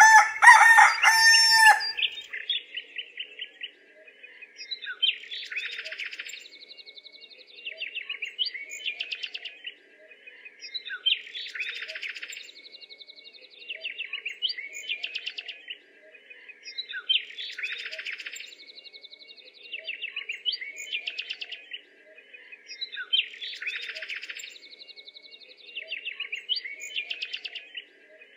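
Birds: a loud pitched call for about the first two seconds, then small birds chirping and trilling in a pattern that repeats evenly about every three seconds.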